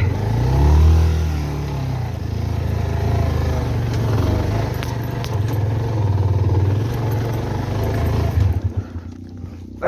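Motorcycle engine revved hard under load on a steep, broken climb, holding high revs with small rises and falls, then dropping away near the end.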